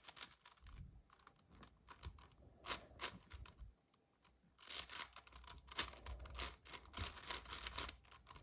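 A 7x7 magnetic Rubik's cube being turned by hand: irregular quick plastic clicks and scrapes as layers snap into place, with a pause of about a second near the middle.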